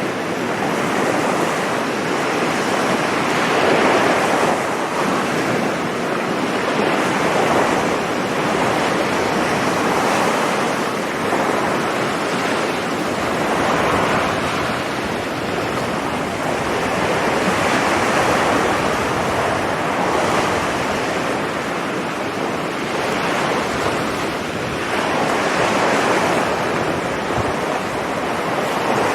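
Sea waves breaking on a beach: a continuous wash of surf that swells and eases as each wave comes in, about every three to four seconds.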